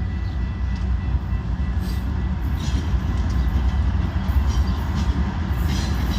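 Train running by, a steady heavy low rumble with brief high-pitched squeaks every second or so.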